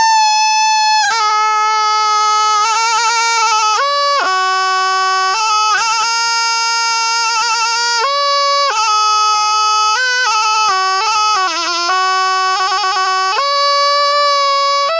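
Thai pi, a quadruple-reed oboe, playing a solo melody in one unbroken line with no pauses for breath, full of quick trills and wavering ornaments between held notes.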